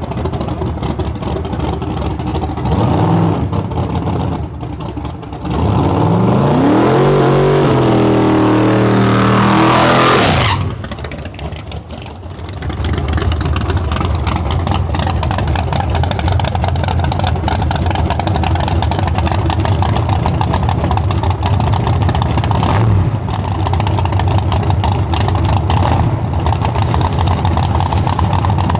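Chevy LUV pickup's engine running, revving up about six seconds in with a rising pitch for about four seconds, then dropping off abruptly, and settling into a steady run after a few more seconds.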